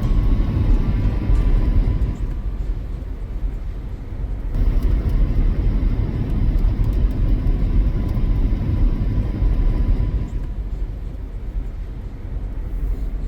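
Steady low rumble of a car driving, road and engine noise, shifting abruptly in level a few times.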